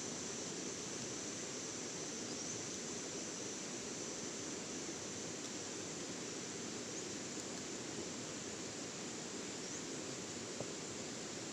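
Steady outdoor background: an even hiss under a continuous high insect drone, with a few faint short chirps.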